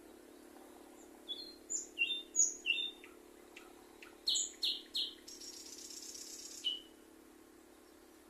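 A songbird sings one phrase of quick, short downward chirps, with three louder notes in the middle and a buzzy, raspy stretch before a final lower note.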